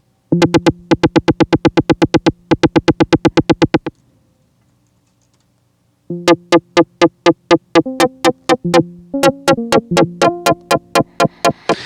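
Bitwig Polymer synth notes chopped into rapid stuttering pulses by a Euclidean LFO pattern. A burst of about eight even pulses a second runs for some three and a half seconds, then a gap, then a longer, unevenly spaced run of pulses with changing notes.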